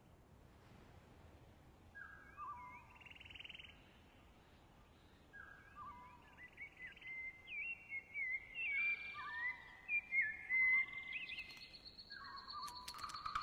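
Birds chirping and whistling in a dawn chorus: short falling chirps and a buzzy trill about two seconds in, then more and more overlapping calls that grow louder toward the end.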